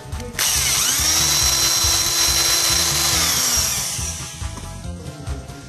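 Small electric drill spinning up, running steadily while widening the bore of a new plastic pinion gear for a toy train motor, then winding down and stopping.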